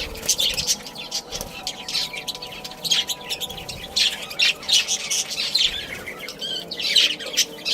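A flock of budgerigars chattering: many short chirps and squawks overlapping without a break.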